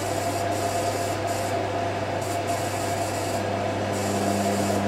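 IKEA RENLIG IWM60 washing machine filling for its final rinse: a steady hiss of water running into the drum over a constant low hum, with a low tone joining about three seconds in.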